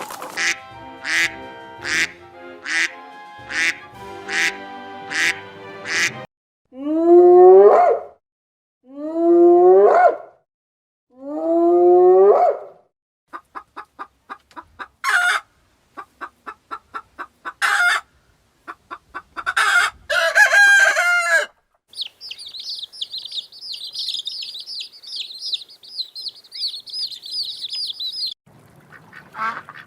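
Domestic ducks and geese calling in a run of short takes: about seven sharp calls in a row, then three long calls rising in pitch, then quick runs of quacking, and near the end a dense high-pitched peeping chatter.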